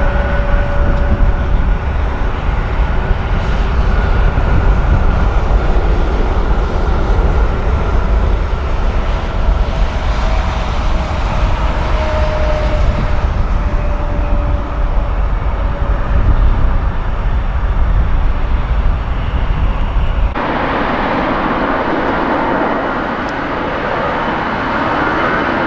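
Jet airliner engine noise: a deep rumble with steady whining tones on top. About 20 seconds in it cuts abruptly to a different stretch of jet noise, a hissing roar without the deep rumble.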